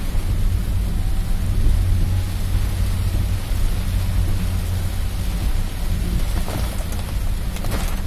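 Heavy rain pelting a car's roof and windshield, heard from inside the moving car over a steady low rumble, with a few short ticks near the end.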